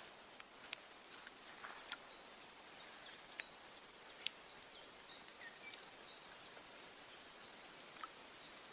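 Faint outdoor ambience with a few scattered sharp clicks and some short, faint high chirps near the middle.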